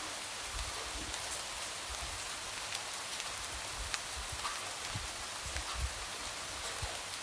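Steady light rain: an even hiss with scattered ticks of single drops tapping against a window.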